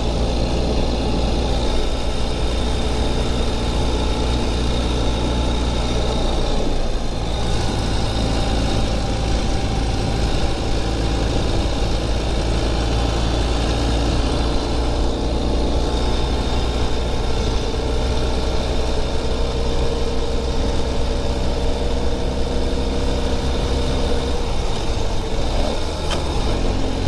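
Ural Gear Up sidecar motorcycle's air-cooled boxer twin running at cruising speed, heard from the rider's seat with wind and road noise. The engine note shifts in pitch a couple of times with throttle changes.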